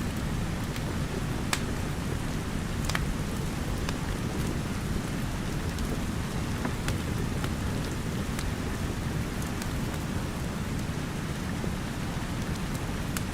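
Steady rain with a deep low rumble, and the sharp crackles of a wood fire scattered through it.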